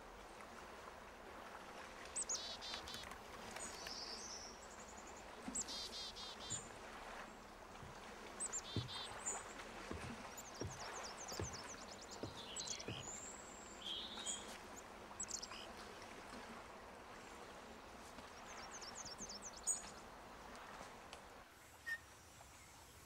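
Forest birdsong: several short, rapid trills of repeated high notes, over a faint steady outdoor hush. In the middle come a few soft footsteps on wooden porch steps.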